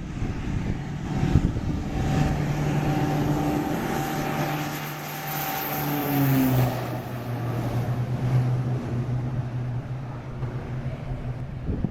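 Cessna Conquest II's twin turboprop engines running at high power as the aircraft passes. The propeller and engine tone drops in pitch about halfway through as it goes by, then runs on steadily at the lower pitch.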